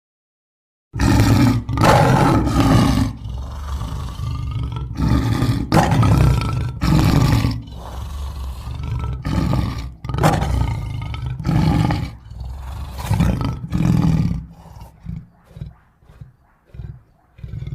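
Big-cat roar sound effects: a string of loud roars, each about a second long, starting about a second in, then trailing off into shorter, quieter calls over the last few seconds.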